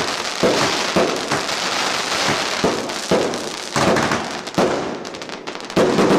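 Fireworks going off in a dense, continuous crackle with repeated sharp bangs, one after another without a break.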